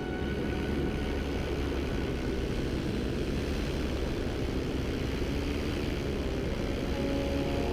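Vittorazi Fly 100 Evo two-stroke paramotor engine and propeller running steadily in flight.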